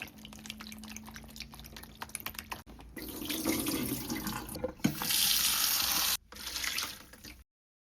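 Water running from a kitchen tap into a sink, with light clicks and knocks of things being rinsed. The flow comes on harder about three seconds in, breaks off briefly, then resumes and stops abruptly near the end.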